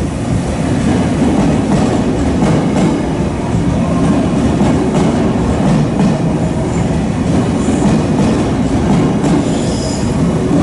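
JR 383 series electric train pulling into the platform on arrival, a steady loud rumble of its wheels and running gear on the rails.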